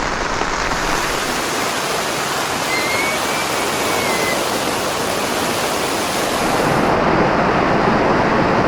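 Very heavy rain falling on a tent, heard from inside: a dense, steady hiss, loud enough that people inside can hardly hear each other.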